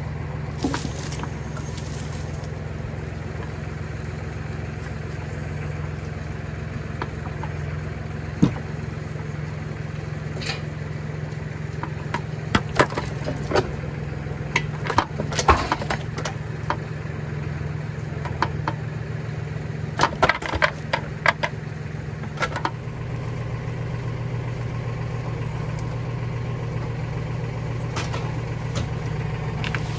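An engine idling steadily, with scattered sharp knocks and clicks, several in quick clusters.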